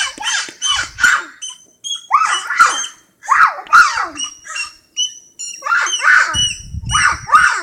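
Birds calling over and over: harsh calls that fall in pitch, mixed with short, high, steady whistled notes.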